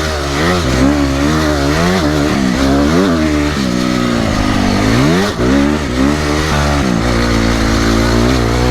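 Honda CRF250R dirt bike's single-cylinder four-stroke engine revving hard under riding on a sand motocross track, its pitch rising and falling again and again with throttle and gear changes. About five seconds in, it drops briefly and then climbs in one long rise.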